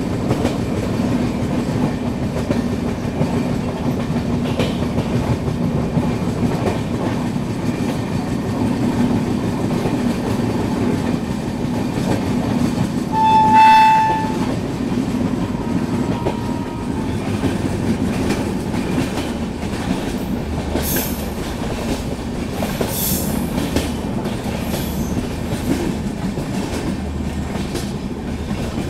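Shatabdi Express passenger train running, heard from outside the coach side: a steady rumble with the clickety-clack of the wheels on the rail joints. A train horn sounds once, for about a second, near the middle.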